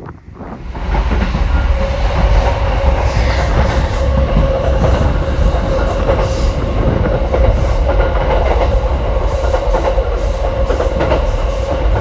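A train running close by: a steady low rumble with a steady hum over it, building up about a second in.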